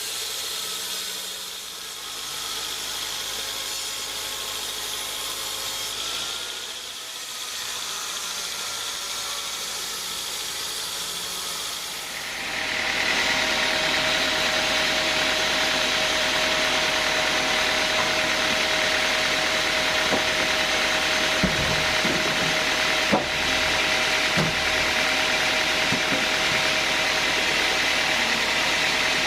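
Sawmill band saw machinery running steadily. About twelve seconds in it becomes louder, with a steady whine over a hiss, and a few faint knocks come in later.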